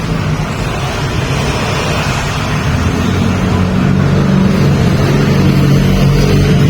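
A vehicle engine running steadily under dense road and wind noise, its low hum shifting up a little about three seconds in.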